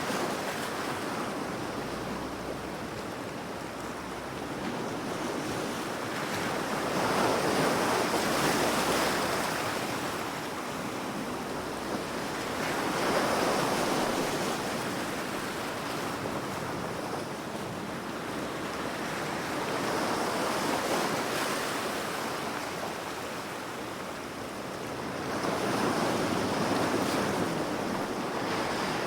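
Waves breaking and washing up a shore in slow swells, about five of them, each building and falling away every six seconds or so over a steady hiss of water.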